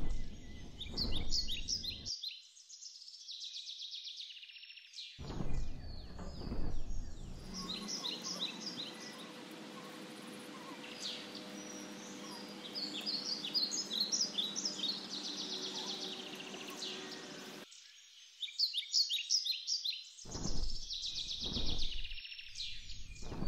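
Small birds chirping and twittering at a bird feeder, many short high calls overlapping, with a few stretches of low rumble on the microphone.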